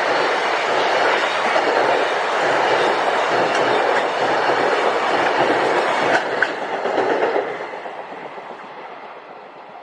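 Train passing on the Tōkaidō Main Line, its wheels clattering loudly along the track, with a couple of sharp clicks a little after six seconds in. The noise dies away over the last two seconds as the train moves off.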